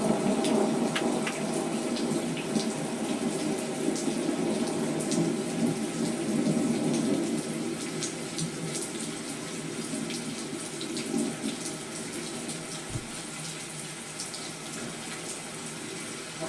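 Steady rain falling, with scattered individual drops ticking over the dense patter.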